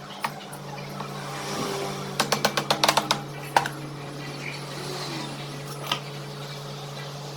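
A steady low hum, with a quick run of about eight sharp clicks a little over two seconds in and a few single clicks before and after.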